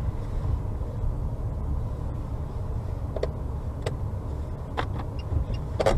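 Steady low rumble of a car driving, with a few short clicks in the second half.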